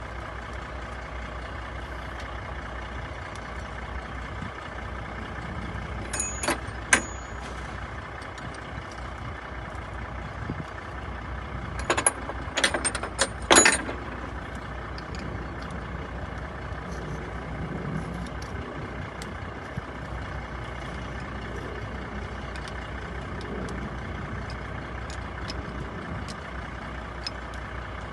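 Sharp metallic clinks of hand tools on semi-truck parts as hoses are released: a couple about six seconds in, and a quick run of louder ones about twelve to fourteen seconds in. Under them is a steady low rumble.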